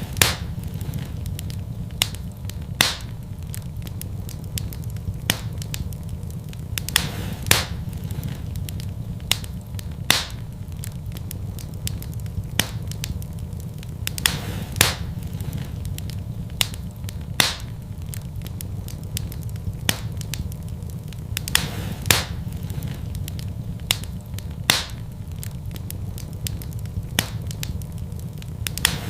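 Wood fire in a fireplace crackling, with sharp pops every few seconds, some in quick pairs, over a steady low rumble.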